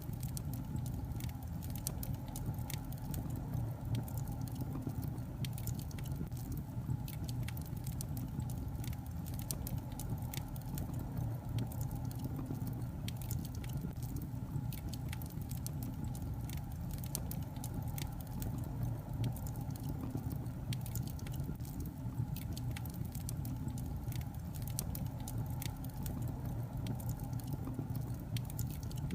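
Burning logs in a fireplace crackling, with frequent small, irregular pops over a low steady rumble.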